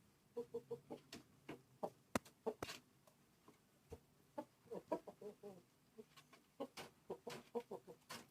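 Bangkok game chicken clucking: runs of short, quick clucks with a pause in the middle, and a few sharp clicks among them.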